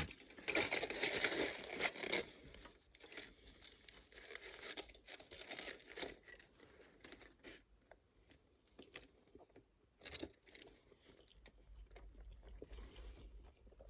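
Crinkling and rustling of plastic food packaging for the first couple of seconds, then quieter scattered clicks, rustles and chewing as leftover pasta is eaten, with a brief louder rustle about ten seconds in.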